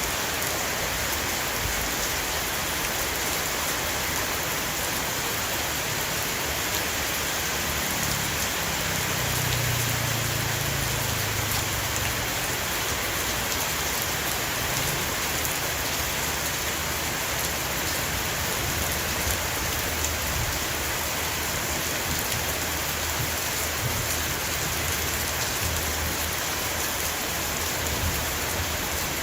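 Heavy shower rain falling steadily on a roof, an even dense patter. A low rumble swells briefly about a third of the way in.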